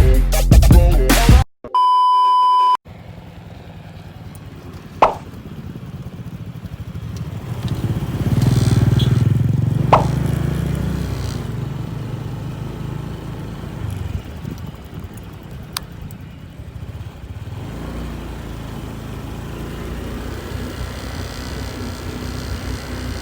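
Electronic intro music cuts off, then a steady electronic beep tone sounds for about a second. After that a vehicle's engine runs with a low, steady rumble that swells for a few seconds near the middle, with two short sharp clicks.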